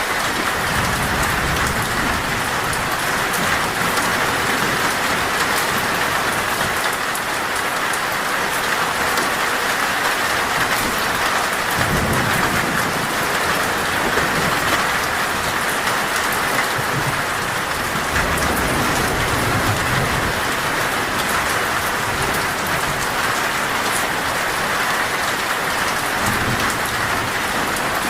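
Heavy rain falling steadily on a metal roof, with several low rumbles of thunder, one setting in sharply near the middle.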